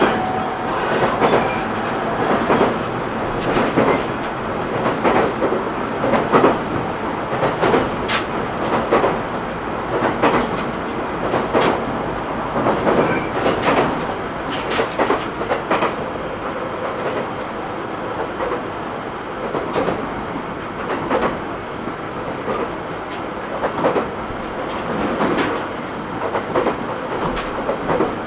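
Interior running sound of an E127 series 0 electric multiple unit at speed: a steady rumble with the wheels clicking over rail joints, heard from inside the passenger car.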